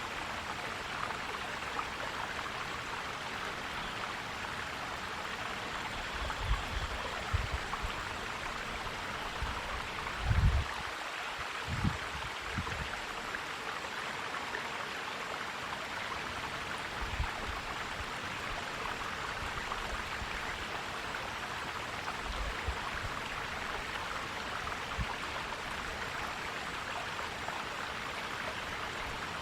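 Forest stream flowing, a steady rush of water. A few short low bumps break in, the strongest about ten seconds in.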